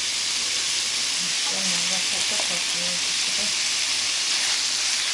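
Julienned potato strips sizzling steadily in hot oil in a frying pan, just added on top of garlic.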